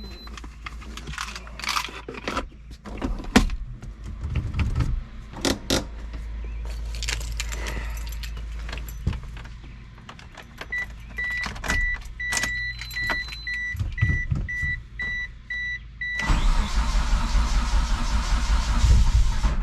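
Clicks and rattles of keys and switches, then a car's warning chime beeping about twice a second for several seconds. Near the end the DSM's turbocharged 4G63 four-cylinder, running on E85, cranks and fires on a cold start after weeks of sitting.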